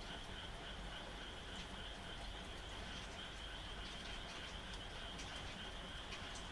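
Frogs calling in a steady night chorus over light rain, with a continuous high trill and scattered sharp ticks.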